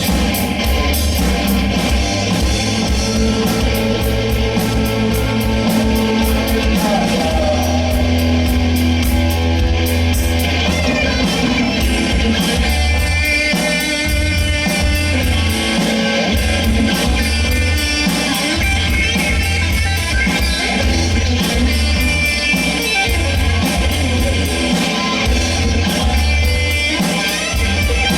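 Rock band playing: electric guitar, bass and drums, with singing, at a steady loud level throughout.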